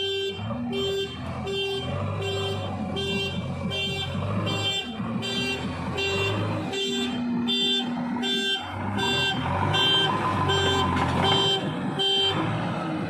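Backhoe loader's reversing alarm beeping about twice a second over its diesel engine running, the beeping stopping shortly before the end.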